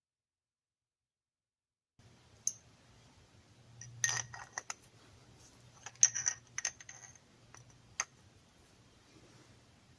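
A scatter of light metallic clinks and clicks, the loudest about four, six and eight seconds in, over a faint low hum that begins about two seconds in.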